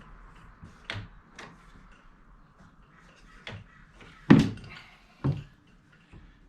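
Five sharp knocks and thumps of a window frame being handled and pushed into place, the loudest about four and a half seconds in.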